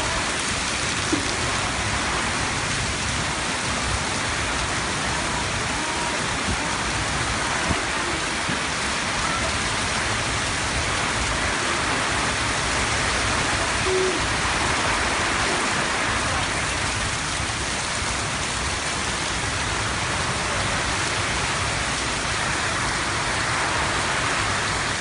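Heavy rain falling steadily, an even hiss of rain on surfaces with a few faint ticks from drops.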